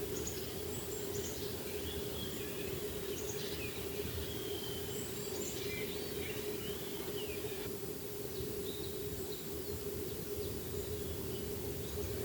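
Wild birds chirping and calling over a steady background hiss and a constant low hum; the calls thin out about eight seconds in.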